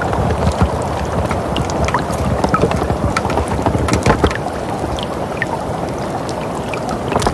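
Steady winter wind with a low rumble, with scattered small crackles and pops throughout and a brief cluster of them about four seconds in.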